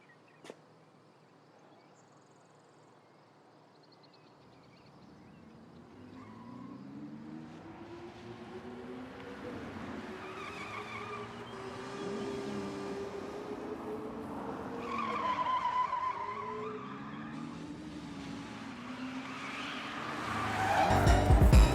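Engine sounds sweeping up and down in pitch over and over, growing louder, after about six seconds of near silence.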